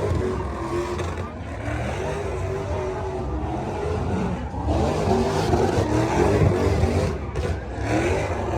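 Car engines running and revving, with crowd chatter; the engine noise gets louder for a couple of seconds past the middle.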